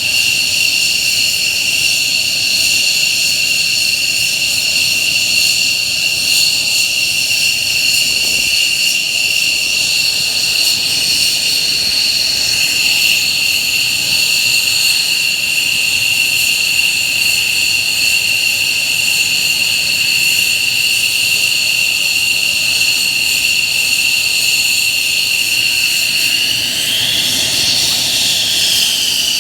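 F-15J fighters' turbofan engines running at ground idle with a loud, steady high-pitched whine over a broad rush. Near the end the whine briefly rises and falls in pitch.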